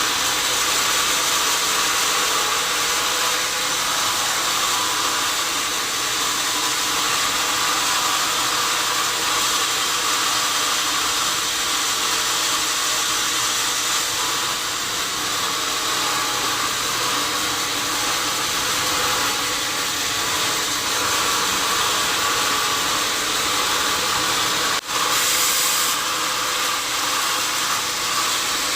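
Sawmill saw running through a large log: a steady, high, hissing machine noise over a motor hum, with one momentary break about 25 seconds in.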